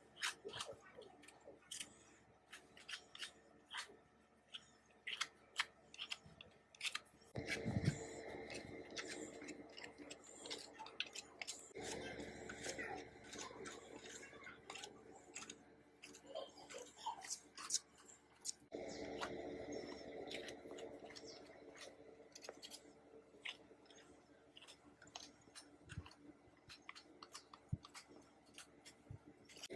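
Hand work on a rusty antique sewing machine: a run of small metallic clicks and ticks, then longer stretches of steady rubbing or scraping about seven, twelve and nineteen seconds in.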